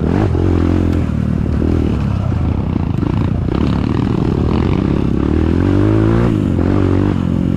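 Kawasaki KLX trail bike engine running under way. Its pitch rises steadily as the throttle opens, then drops sharply about six seconds in.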